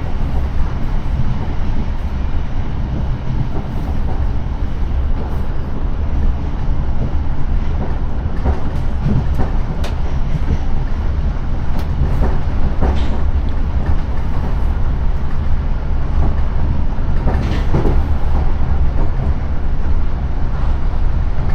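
Class 455 electric multiple unit running along the line, heard from inside the carriage: a steady low rumble with occasional clicks and knocks from the wheels on the rails.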